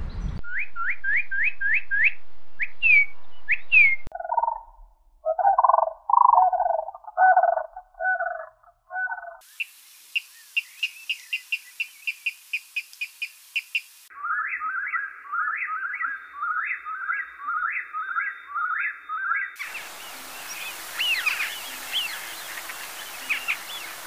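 Songs and calls of several different birds, spliced one after another with abrupt changes every four to six seconds. First comes a run of quick rising chirps, then lower-pitched calls, then a fast high twittering, then a short phrase repeated evenly, and last some scattered chirps over a background hiss.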